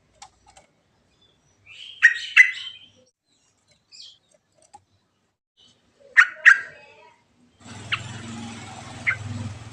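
Yellow-vented bulbul singing: two short, loud bubbly phrases about four seconds apart. Near the end a steady low hum with hiss sets in under fainter chirps.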